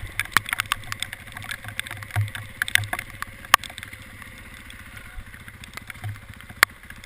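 Scattered sharp taps and clicks, a couple a second and irregular, over a low hum that comes and goes.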